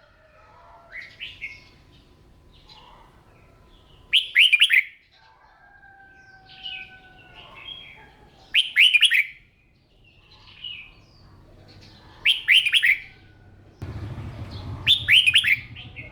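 Red-whiskered bulbul singing: a loud, short warbled phrase about every four seconds, with softer chirps between. A low hum comes in near the end.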